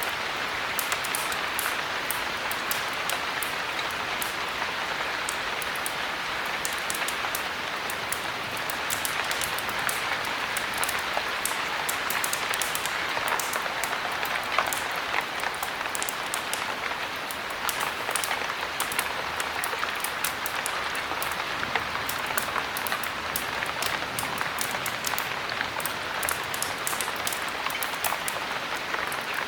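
Steady heavy rain: an even hiss with a dense scatter of sharp little ticks throughout.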